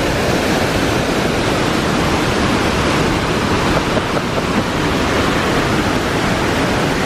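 Loud, steady rush of the Banias waterfall, water falling in a spring-fed river in full flow, with some wind buffeting on the microphone.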